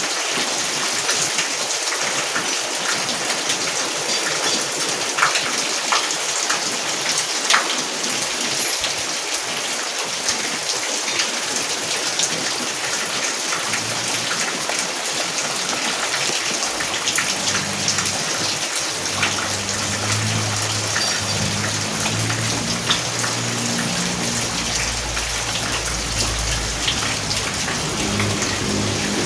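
Steady rain falling on a surface, with scattered louder drop ticks. From about halfway through, low sustained notes come in underneath and grow stronger near the end.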